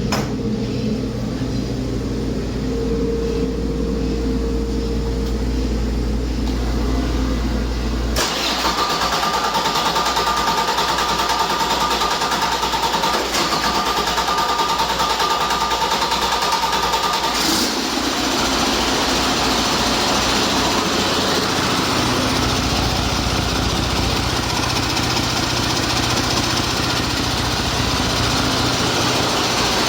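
2013 Detroit Diesel DD13 inline-six diesel engine running on a test run. About eight seconds in the sound changes abruptly and gets louder, with a high whine that lasts until about seventeen seconds in, when the sound shifts again.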